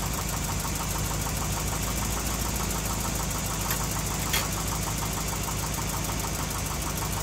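1992 Volvo 244's engine idling steadily, a little on the loud side after sitting for a long time. A couple of light clicks about four seconds in.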